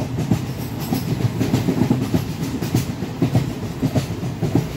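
A train running past on the track: a steady low rumble with the wheels clattering over the rail joints.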